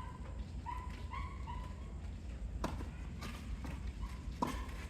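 Sharp hits from a doubles game in play, a few over several seconds, mixed with short high squeaks.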